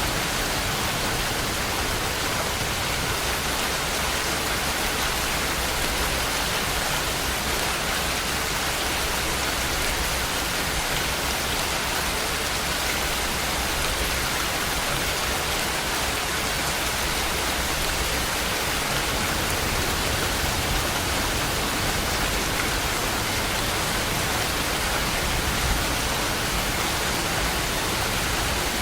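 Steady rain falling, an even, unbroken hiss at a constant level.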